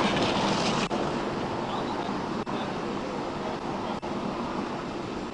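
Steady rushing of wind on the microphone mixed with highway traffic going by, loudest in the first second and then easing off a little.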